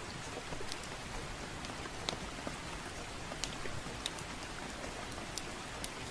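Soft, steady rain with a crackling wood fire: an even hiss of rain with a handful of sharp pops and crackles scattered irregularly through it.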